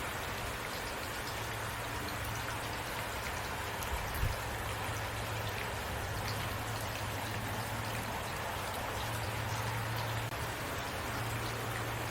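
Heavy rain falling steadily, an even dense patter of drops over a low steady rumble, with one brief low thump about four seconds in.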